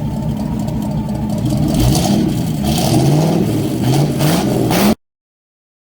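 An engine revving up and down several times, then cutting off abruptly near the end.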